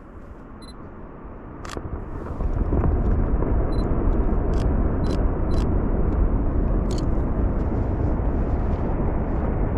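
Deep, steady rumble of a distant avalanche that swells up suddenly about two and a half seconds in and holds, with a few sharp clicks over it.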